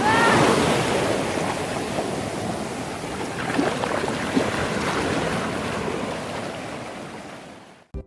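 Ocean waves breaking and washing up the shore, with wind buffeting the microphone. The sound fades out near the end.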